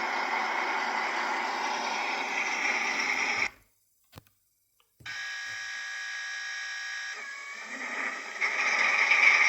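Model V142 diesel locomotive running on a layout, a steady mechanical hum from its motor and wheels on the track. The sound cuts out completely for about a second and a half, comes back as a steadier hum with clear tones, and grows louder and noisier near the end.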